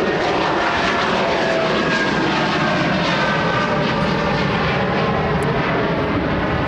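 Jet airliner passing low overhead: loud, steady engine and air noise, with whining tones that fall in pitch as it goes by.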